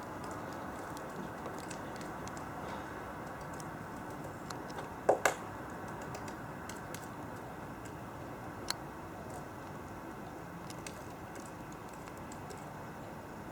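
Great spotted woodpecker pecking: scattered light taps, with a loud double knock about five seconds in and another sharp knock a few seconds later, over steady background noise.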